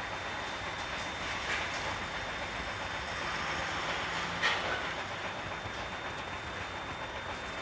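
Container truck under way: steady road and running noise, with a short sharp knock a little past the middle.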